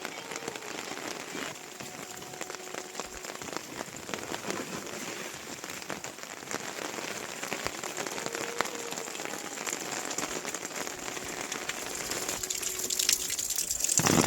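Rain falling steadily, a close patter of many drops hitting surfaces, getting louder near the end.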